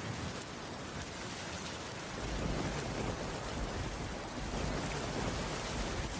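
Steady rain falling, an even hiss of drops, with a low rumble coming in about two seconds in.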